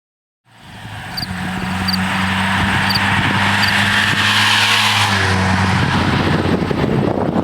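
Subaru WRX's turbocharged flat-four running through an Invidia N1 stainless dual catback exhaust, fading in and holding a steady engine speed with a low, even note. About six seconds in the steady note gives way to a rougher, noisier exhaust sound.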